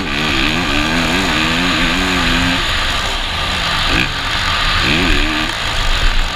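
Motocross bike engine revving, its pitch climbing and falling several times as the throttle is opened and closed, over a steady rushing noise.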